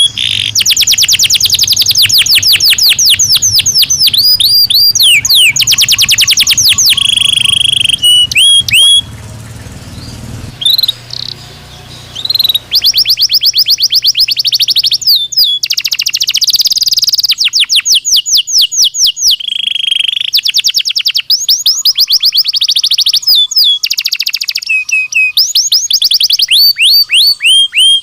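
Belgian canary singing loudly and close to the microphone: fast trills of rapidly repeated notes alternating with held whistled notes, with a few seconds of quieter, scattered notes about ten seconds in.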